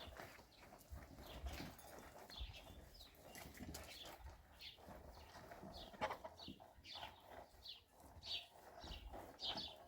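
Faint, repeated short chirps of small birds, with an occasional light knock.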